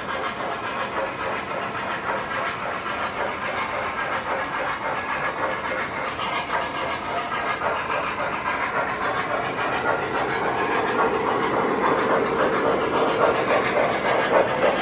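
Two MTH American Legacy O-gauge model steam locomotives, New York Central Hudsons, running together: their onboard sound systems chuff and hiss over the rumble and clicking of the wheels on the track. The sound grows louder near the end as the trains come closer.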